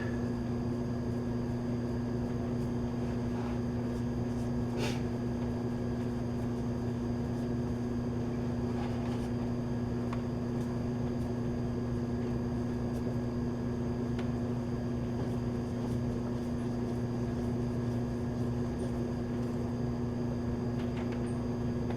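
Steady, even machine hum, with a faint tick about five seconds in.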